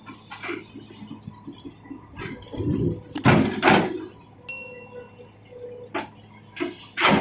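A series of hard objects clattering and knocking together, loudest about three seconds in and again near the end, with a brief high ringing tone in between.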